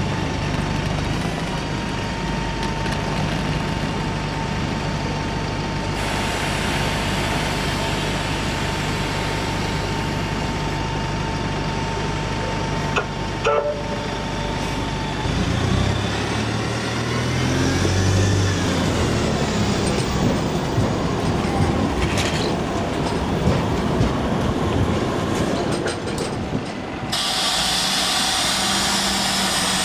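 Buses and trams running at a stop. A steady low hum with a held whine lasts about fifteen seconds. Then an engine note climbs and a higher whine rises and falls as a vehicle moves off, with a hiss near the end.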